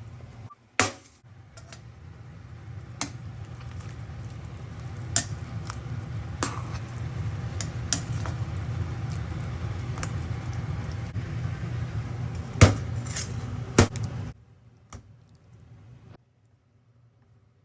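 Sharp clinks of cookware, about seven scattered strikes, over a steady low rumble that builds slowly and cuts off suddenly near the end.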